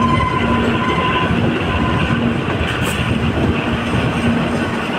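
Kalka–Shimla narrow-gauge toy train running along the track, heard from inside a coach at an open window: a steady rumble and rattle of wheels and coaches, with a whine that comes and goes.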